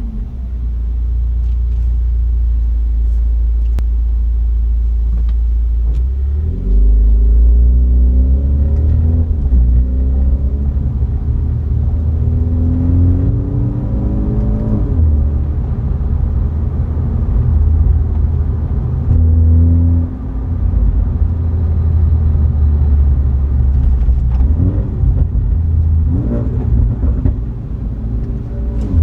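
BMW 330i's B48 2.0-litre turbocharged four-cylinder engine and exhaust while driving. A steady low drone at first, then several pulls where the pitch rises through a gear and drops back at each upshift.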